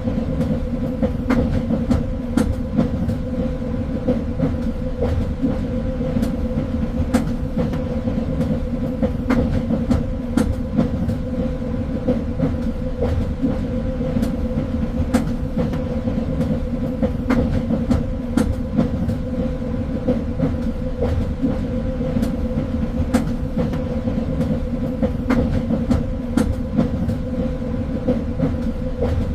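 Train running steadily on rails: a constant low rumble with a steady hum, and scattered sharp clicks and knocks from the wheels and carriage.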